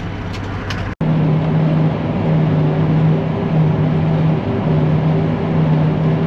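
Tractor and forage chopper running with a steady mechanical drone. About a second in there is an abrupt cut, and after it the drone is louder and steadier.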